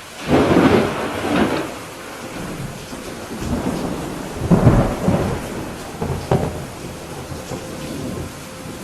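Thunder over steady rain: a sudden loud crash just after the start, then rumbling that swells again and peaks a little past the middle, with a short sharp crack later on.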